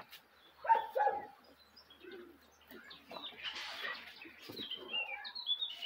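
Small birds chirping in the background, with a run of short, high, falling chirps near the end. A brief voice sound about a second in is the loudest thing.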